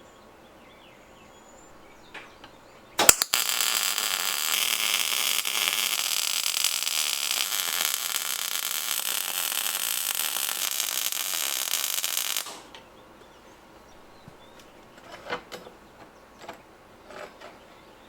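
Electric arc welding: the arc strikes with a sharp crack about three seconds in, sizzles steadily for about nine seconds and cuts off abruptly. A few light clicks and taps follow near the end.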